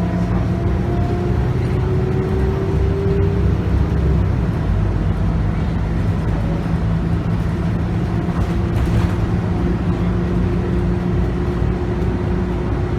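A Scania city bus with a 9.3-litre five-cylinder diesel and a ZF Ecomat six-speed automatic, heard from on board while driving. The engine gives a steady drone, with a thin whine over it that rises slowly in pitch during the first few seconds.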